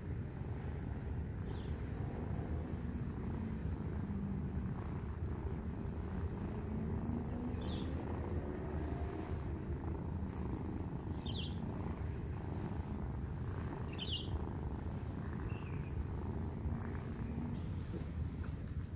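Mother cat purring steadily while her kittens nurse, with a few short high-pitched squeaks scattered through it.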